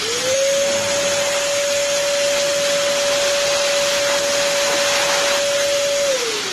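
Ryu RVC 15 L wet/dry vacuum cleaner's motor switched on, its whine rising quickly to full speed over a loud rush of air, running steadily, then switched off about six seconds in and winding down with a falling whine.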